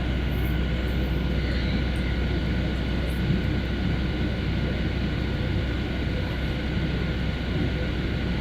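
Steady jet engine and airflow noise heard inside the cabin of a Boeing 737 in cruise: a deep, even rumble with a faint steady whine over it.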